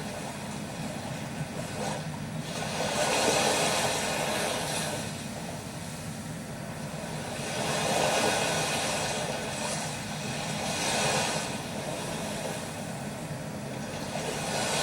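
Sea waves washing onto a sandy shore, the surf swelling and fading about every three to four seconds.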